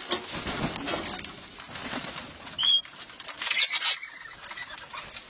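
Parrots calling at a hand-feeding spot: a short, sharp call about halfway through, followed by a second burst of high chirping, with fluttering and scuffling around them.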